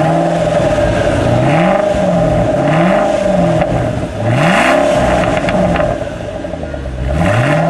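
Ford Shelby GT500's supercharged V8 through a Stainless Works long-tube header, catted X-pipe and chambered-muffler exhaust, revved again and again while parked. The engine pitch climbs and falls with each blip, several times over.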